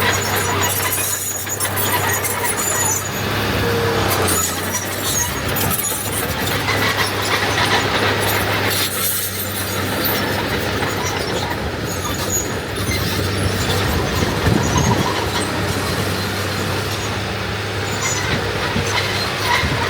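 Diesel earthmoving machinery, dump trucks and a small crawler bulldozer, running steadily under load, with a continuous engine drone and intermittent high metallic squeals.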